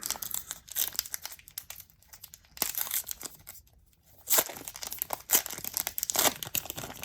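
A trading card pack's wrapper being torn open and crinkled by hand, in three spells of crackling tearing.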